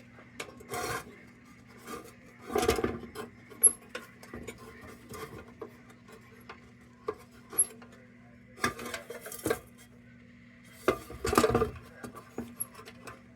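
Sheet-metal lantern parts being handled on a workbench: irregular clinks, knocks and rubbing, with a few louder clattering moments.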